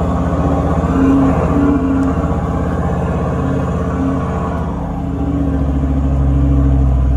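Four-wheel drive's engine running as it drives along a dirt track, heard from inside the cabin as a steady low drone that swells slightly about five seconds in.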